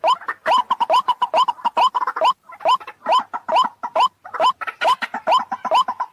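White-breasted waterhen (ruak-ruak) calling: a loud, rapid series of upward-hooked notes, about two to three a second, with a short break about two and a half seconds in. It is a lure recording, played to draw waterhens in.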